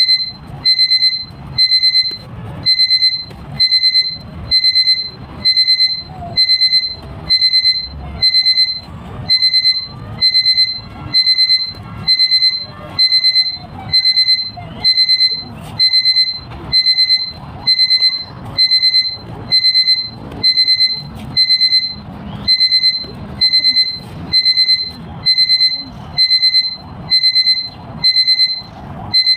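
Electronic alarm beeping loudly: a short, rapid, high-pitched beep burst repeating about once a second, without a break.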